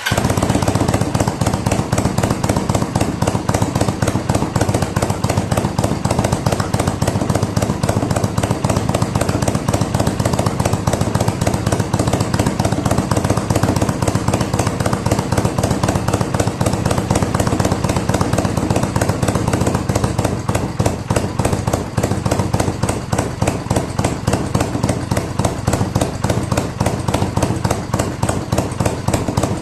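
Kawasaki Vulcan 400 V-twin running steadily at idle through an aftermarket 2-into-1 slash-cut muffler, a loud, rapid, even train of exhaust pulses.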